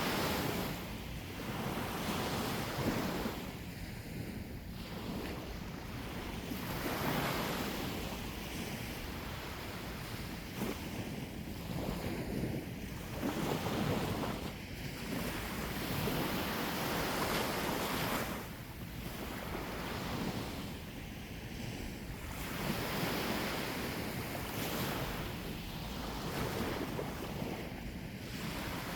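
Sea waves washing onto the shore, the surf swelling and easing every few seconds, with wind rumbling on the microphone.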